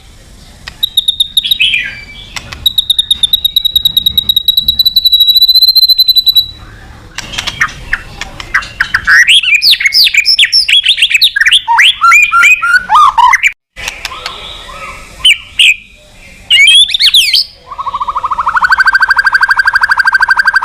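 White-rumped shama (murai batu) singing loudly: a long, steady high whistle, then a fast run of varied sweeping, chattering phrases. About 18 seconds in, a steady, rapid buzzing trill starts.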